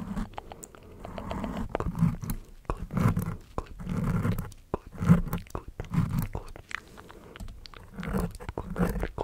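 Close-miked ASMR mouth sounds: many wet clicks and smacks, with short low voiced sounds about once a second.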